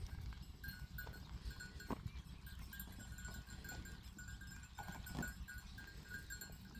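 A flock of sheep and goats, faint, with a couple of short bleats about two seconds and five seconds in, over a low steady rumble.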